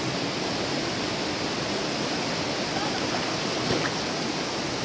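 Steady rushing of flowing river water, with one light click about three-quarters of the way through.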